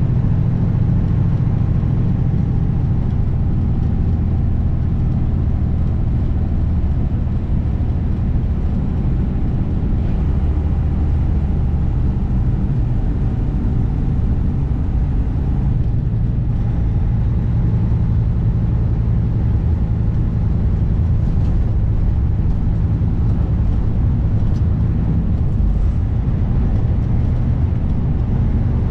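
Kenworth W900 semi truck's diesel engine running steadily at road speed, with road and wind noise.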